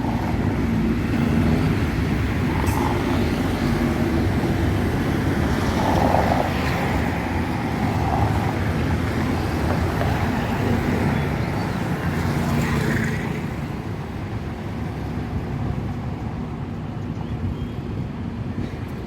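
Vehicle engine running steadily under general traffic noise, easing off a little about two thirds of the way through.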